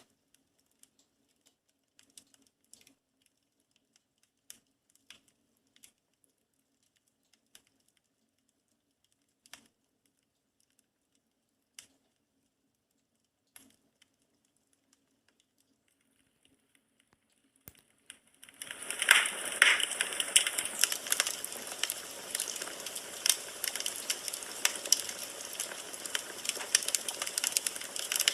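Wood burning in a fireplace: for most of the first eighteen seconds only a few faint, scattered pops, then about eighteen seconds in a loud, dense crackling and hissing of burning logs starts suddenly and keeps on.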